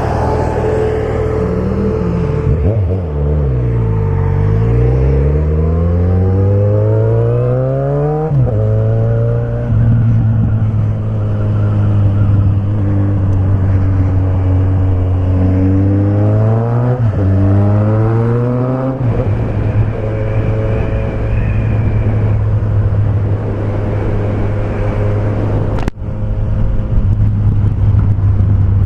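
Suzuki Bandit 1250's inline-four engine through an open straight pipe with no muffler, accelerating through the gears. The revs climb and drop sharply at an upshift about eight seconds in, hold steady, then climb through two more quick upshifts about two-thirds of the way in before settling into a steady cruise.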